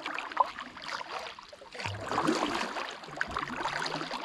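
A kayak setting off through the water: paddle strokes splashing and water moving against the hull, irregular and louder from about halfway.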